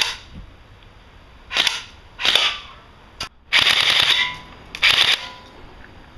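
Airsoft BB gun firing about six times at targets. The shots come unevenly, and one near the middle runs on for most of a second like a short full-auto burst.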